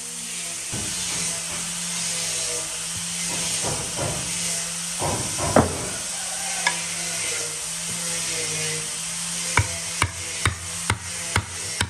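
A power tool running with a steady hiss and low hum, with a few louder scraping passes midway. Near the end come about six sharp knocks, roughly two or three a second.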